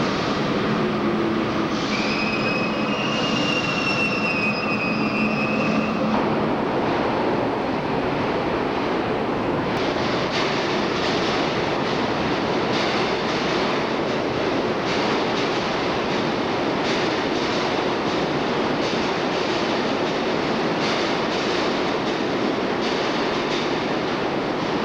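Subway work train of R22 and R30 work motors and refuse flat cars running through a station, its wheels squealing in high tones for a few seconds early on, then steady rumbling with repeated clacks of wheels over rail joints.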